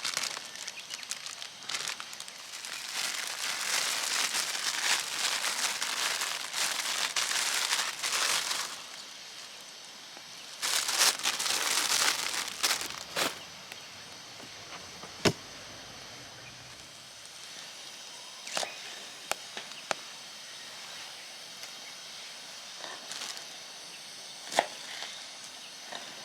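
Crinkling, rustling handling noise in two spells, then a few sharp, isolated clicks or pops.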